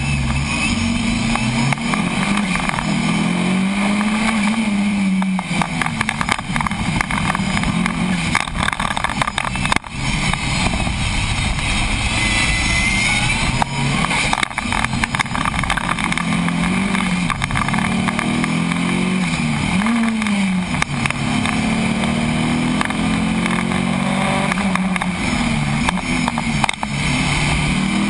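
Car engine heard from an onboard mount during a fast run on a tarmac course, its pitch rising and falling again and again through acceleration, gear changes and lifts for corners, over steady wind and tyre noise.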